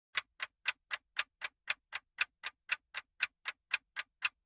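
Clock-like ticking of a quiz countdown timer sound effect, with even ticks at about four a second.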